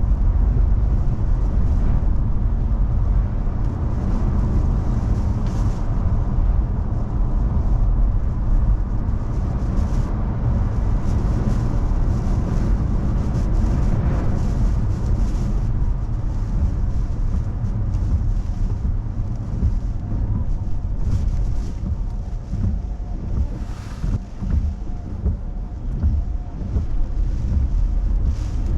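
Car driving, heard from inside: a steady low rumble of engine and road noise, with wind gusting against the car in a typhoon.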